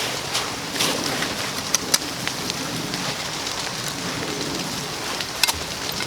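Steady rain falling, with a few sharp taps of drops landing close by.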